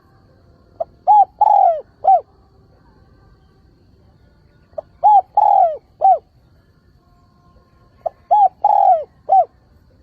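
Spotted dove cooing its calling song three times, about every three and a half seconds. Each phrase is a short note, two quick coos, one longer drawn-out coo, and a final short coo. It is a decoy bird's call, used to draw wild doves in.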